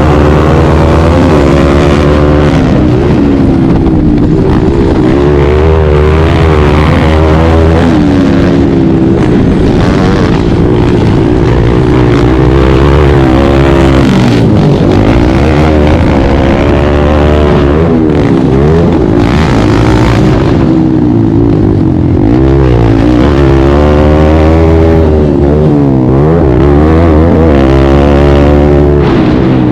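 Kawasaki KLX140 pit bike's single-cylinder four-stroke engine revving hard under race riding, its pitch repeatedly rising under acceleration and falling as the throttle is rolled off.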